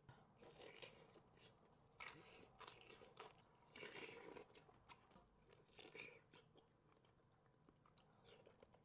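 Faint close-miked chewing of a person eating, coming in a few short soft spells a second or two apart.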